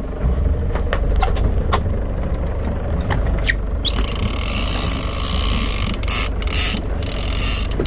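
Big-game fishing reel's drag buzzing as a bluefin tuna pulls line off, starting about four seconds in and cutting in and out in short spurts near the end, over a steady low rumble.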